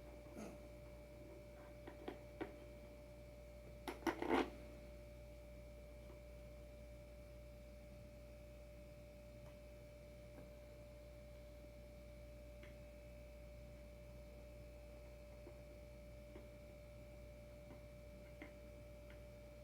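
Steady low hum with a faint constant tone, broken by a few light clicks and a short cluster of knocks about four seconds in, from hardware being handled while fitting a surfskate adapter to a board.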